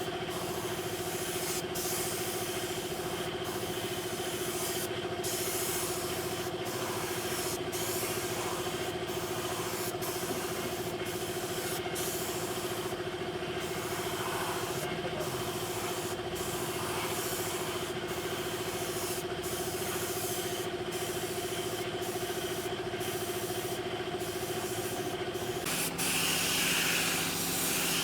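A small motor running steadily with a hissing, rubbing noise, the hiss dipping briefly about once a second; near the end the motor's tone drops and the hiss gets louder.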